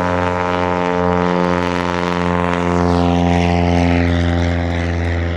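Light airplane's piston engine and propeller at full power for a short-field takeoff: a loud, steady drone.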